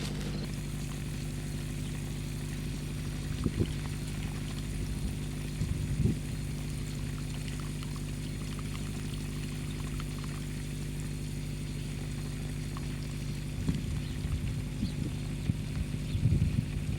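A motor running with a steady low hum, with a few short knocks about three and six seconds in and several more near the end.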